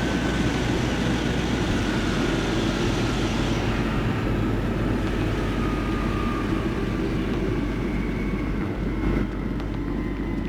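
Shanghai maglev train running: a steady rumble with a faint tone sliding slowly down in pitch, and a hiss that dies away about four seconds in.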